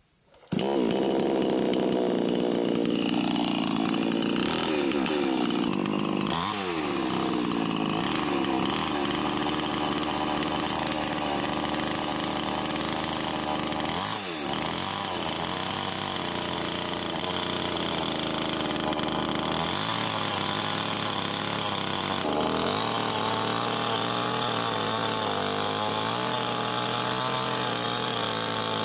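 A small motor running steadily, starting abruptly about half a second in, with brief dips and swoops in pitch.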